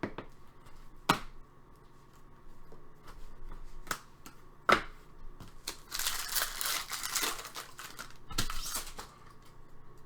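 Trading cards being handled at a table: two sharp taps, then two stretches of rustling as cards and wrapper slide and crinkle.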